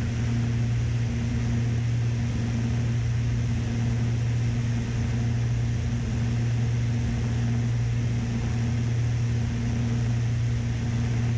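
Steady drone of a Beechcraft Baron B55's twin piston engines and propellers in the cockpit: a constant low hum with a steady higher overtone over a wash of noise.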